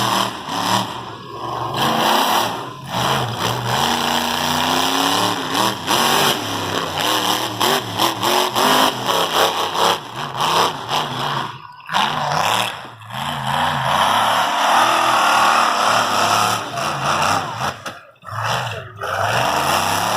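Monster truck engine running hard and revving, its pitch rising and falling again and again, with a couple of brief dips in level about twelve and eighteen seconds in.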